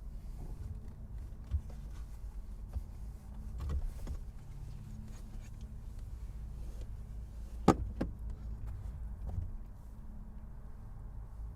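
Car engine running in a steady low hum, with scattered clicks and knocks and one sharp, loud click about two thirds of the way in.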